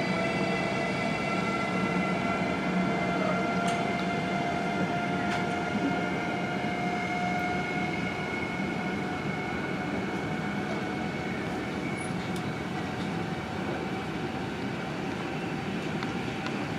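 Electric train running on the line at the station, its steady electric whine drifting slightly lower in pitch over rolling noise, slowly fading.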